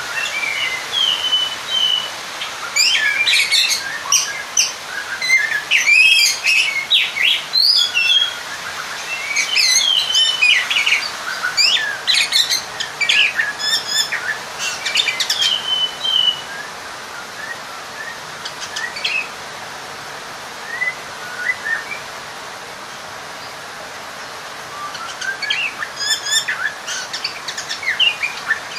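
Oriental magpie-robin (kacer) singing a loud, varied song of quick whistles, rising and falling sweeps and sharp notes in dense bursts. It thins to a few scattered notes for several seconds in the middle, then picks up again near the end. This is the aggressive, rival-seeking song that provokes other male magpie-robins.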